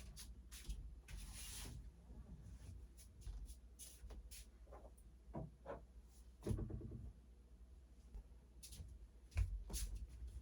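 Faint handling noises: scattered light knocks and clicks, with a short rustling scrape about a second in and two firmer knocks later on.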